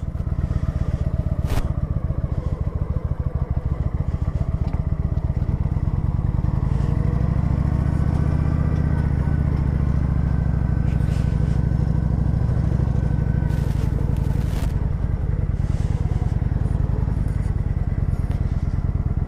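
Motorcycle engine running at low revs, pulsing steadily. The low rumble grows louder and the pitch rises a little in the middle as the bike moves off, then it settles again. A few brief clicks are heard.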